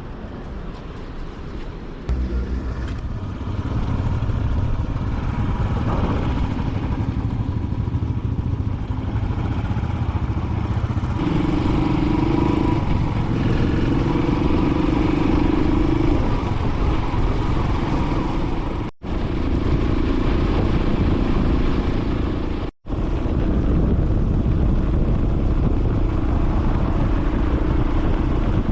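Motorcycle engine running steadily as the bike rides along. It gets louder about two seconds in. The sound drops out abruptly twice for a split second in the later part.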